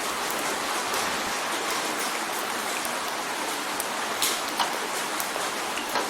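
Steady rain drumming on a window: an even hiss with single drops ticking sharply against the glass, a few louder ones a little past the middle.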